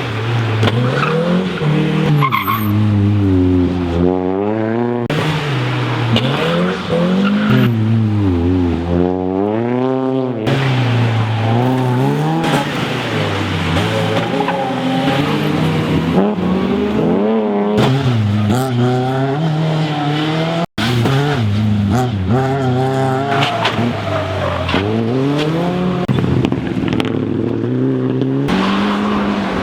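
Rally car engine at full effort through a stage, its pitch repeatedly climbing under acceleration and dropping on braking and gear changes, with tyres squealing through the corners. The sound cuts out for an instant about two-thirds of the way through.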